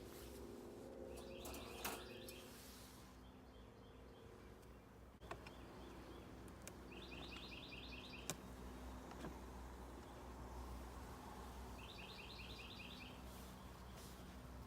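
A songbird singing a short, fast trilled phrase three times, about five seconds apart, over a faint low steady hum and a few light knocks.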